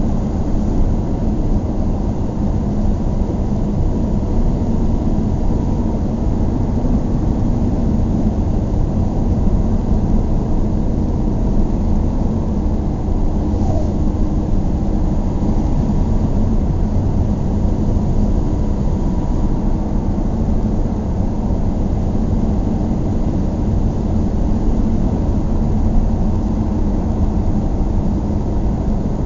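Steady low rumble of a moving road vehicle, engine and road noise running evenly without change.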